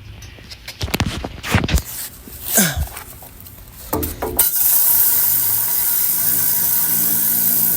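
A few knocks and clatters of handling, then about halfway through a pressure washer starts spraying with a steady loud hiss, flushing loosened rust debris out of a metal fuel tank.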